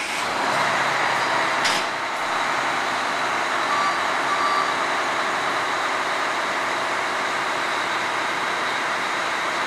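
Fire engine under way, heard from the outside of the truck: a steady rush of road, wind and engine noise, with a single sharp click about a second and a half in.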